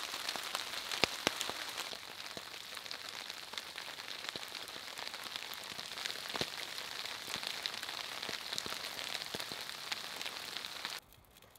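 Steady rain falling, an even hiss with many individual drops ticking and pattering. It stops abruptly near the end.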